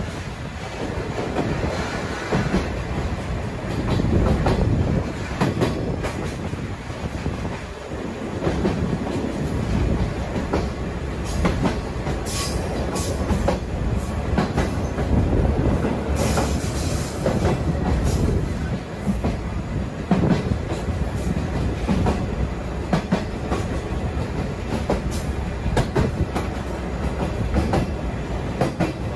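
Sagano sightseeing trolley train running, heard from on board: a steady rumble and rattle of its wheels on the track, with a few sharp clicks about twelve, sixteen and twenty seconds in.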